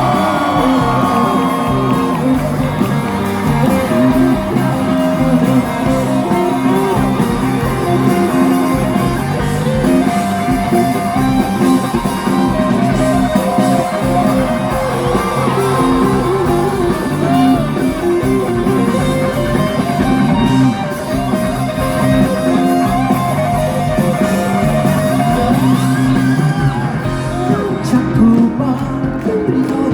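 Live rock band playing loudly, guitars to the fore over bass and drums, with no clear lead vocal, heard through a phone's microphone in the audience.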